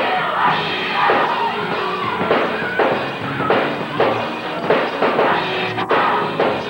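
Gospel choir singing over a live band, a drum kit keeping a steady beat.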